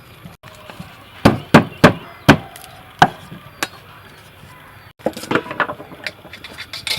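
Knife chopping on a wooden cutting board: four hard strikes a little over a second in, two more around three seconds, then a quicker run of lighter chops from about five seconds on.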